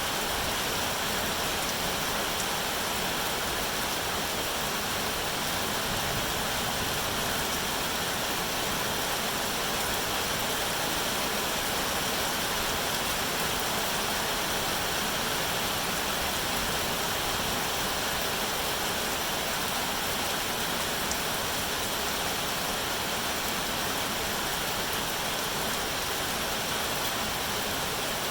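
Steady rainfall, an even unbroken hiss with no individual drops or thunder standing out.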